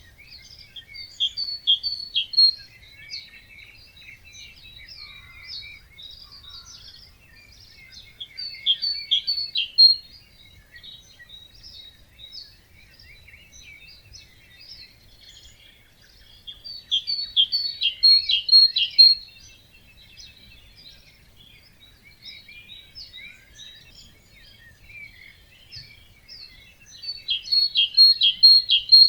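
Wetland dawn chorus of several birds singing and calling. One nearby bird repeats a short, loud song of rapid notes four times, about every eight to nine seconds, over quieter chirping from others.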